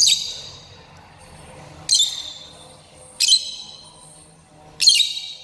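Pet lovebird giving four short, shrill calls, spaced about one and a half to two seconds apart.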